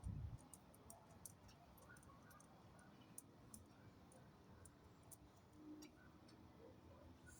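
Near silence: faint, irregular high-pitched ticks over a low steady hum.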